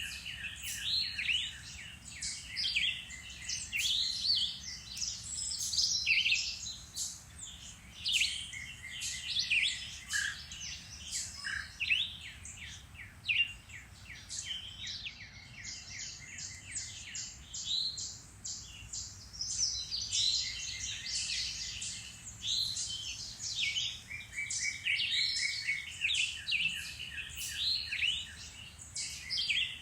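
Several woodland songbirds singing and calling at once: a dense, overlapping chorus of chirps, rapid trills and short whistled phrases.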